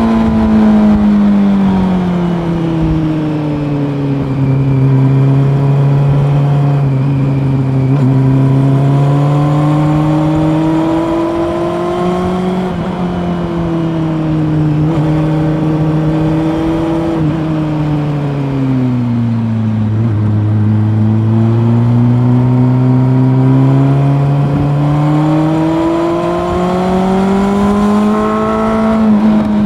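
Honda CB400 Super Four's inline-four engine pulling along a winding road. The revs ease off over the first few seconds, step up slightly around twelve seconds in, and fall to their lowest around twenty seconds. They then climb steadily again near the end.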